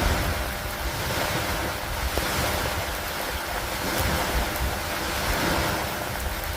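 Steady downpour of rain, a dense even hiss, with a low gusty rumble of wind on the microphone that swells and eases every second or two.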